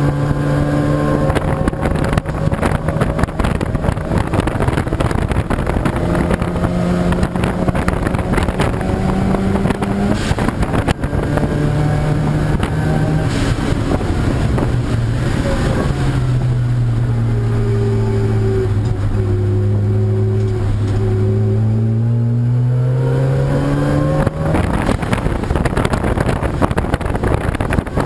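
Race car engines running on a circuit, their notes rising and falling as the cars accelerate and slow. About halfway through, one engine note drops steadily and then climbs again.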